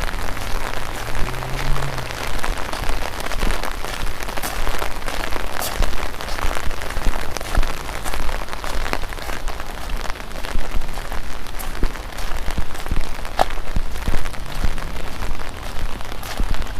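Steady rain falling, with many sharp drop ticks scattered through it.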